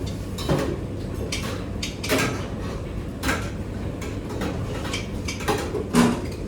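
Kitchen pots, pans and utensils clattering in a handful of separate knocks, the loudest near the end, over a steady low hum.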